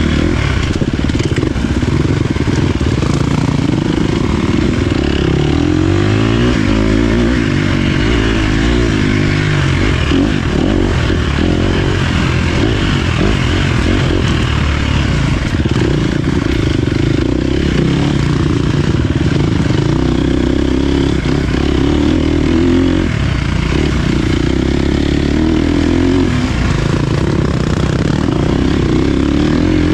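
Dirt bike engine under way on a trail, its pitch repeatedly climbing and dropping as the throttle is opened and closed and gears change.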